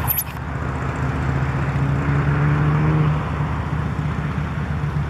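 Road traffic: a steady low rumble, with one motor vehicle's engine note growing stronger about two to three seconds in and then easing off as it passes.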